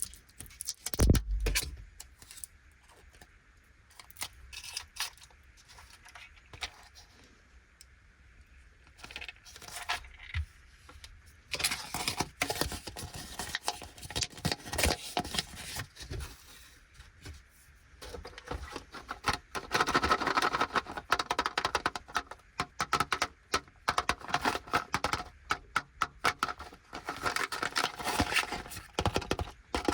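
Plastic candy packaging being handled and opened: crinkling and rustling with quick clicks and taps. Sparse and quieter at first, then dense crackling from about twelve seconds in, busiest in the second half.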